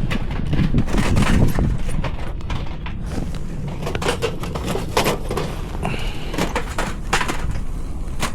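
Wind buffeting the microphone in a steady low rumble, with a scatter of sharp clicks and knocks through it.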